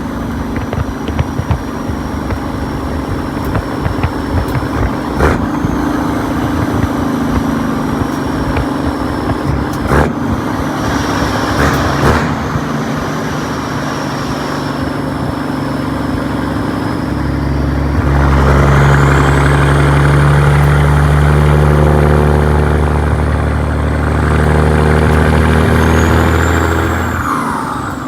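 Caterpillar 3406E (6NZ) inline-six diesel in a 1998 Peterbilt truck running under way. About two-thirds of the way through it pulls harder and louder, a deeper note with a high whistle rising above it, then dips briefly near the end.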